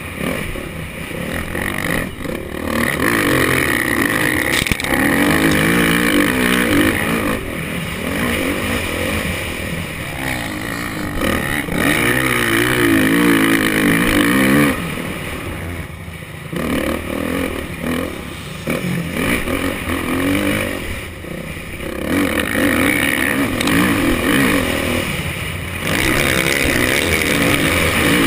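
Motocross bike engine heard from the rider's helmet camera, revving up and easing off again and again as the bike is ridden hard around the track. The engine drops off briefly twice, about 15 and 21 seconds in, before pulling again.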